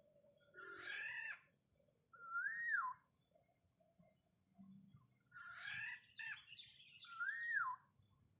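Black-naped oriole calls, given twice: each time a short, scratchy note followed by a clear, fluty whistle that rises and then falls.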